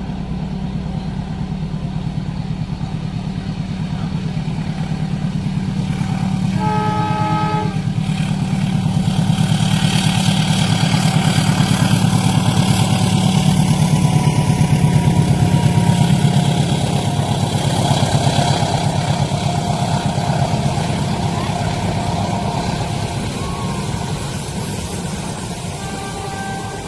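Train passing a level crossing: a steady heavy rumble that builds to a peak about halfway through and then slowly fades. A short horn sounds about seven seconds in.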